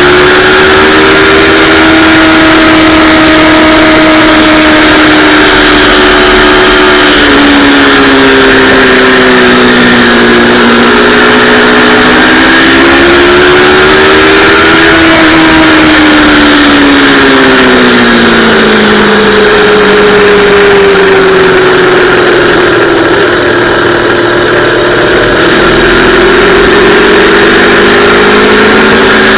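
Yamaha R3's parallel-twin engine running hard, its revs rising and falling through gears and corners, with a long fall in pitch about two-thirds of the way through.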